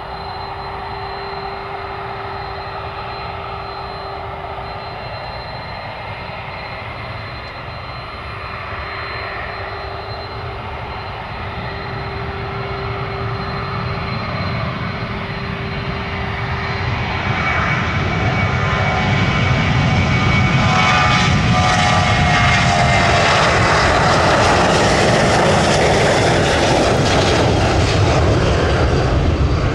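Airplane engines growing steadily louder as an aircraft approaches and passes close by. The engine whine falls in pitch from about seventeen seconds in, and the noise stays at its loudest through the end.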